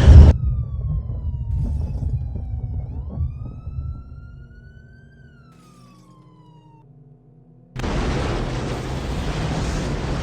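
A siren wailing, its pitch falling, rising slowly, then falling again over several seconds. Loud rushing noise cuts off abruptly at the start, and a second burst of it comes in suddenly near the end.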